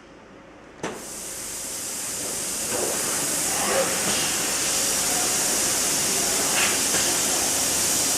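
A click from the ultrasonic plastic welding machine, then a steady high hiss that builds over a couple of seconds and holds as the machine works on the car instrument panel.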